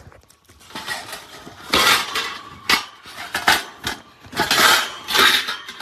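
Clattering and clinking in several short bursts as the parts of a bird travel carrier are handled and moved around.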